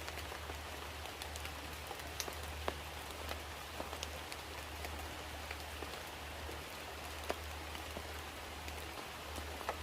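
Steady rain falling, with individual drops striking sharply every so often over a continuous hiss, and a steady low hum underneath.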